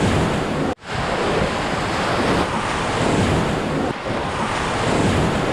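Rushing whitewater of the Ganges around a raft, with wind buffeting the microphone, broken by a momentary gap about three-quarters of a second in.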